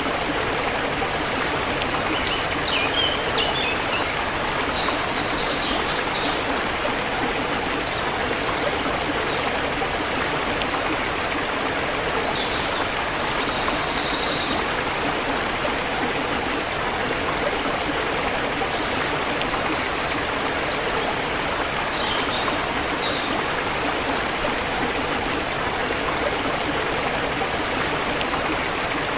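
Forest river water flowing steadily, with birds chirping in short bursts of high calls three times, a few seconds in, near the middle and about three quarters of the way through.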